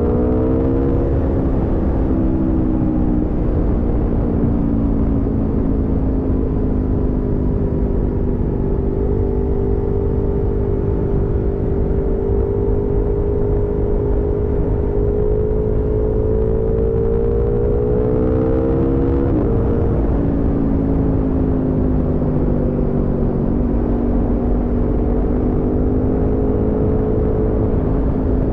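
Aprilia Tuono V4 motorcycle's V4 engine under way, heard from the rider's seat with wind rushing over the microphone. The revs rise briefly at first, settle to a steady cruise, then build for a few seconds before dropping suddenly about two-thirds of the way through, as at an upshift, and the engine carries on steadily at lower revs.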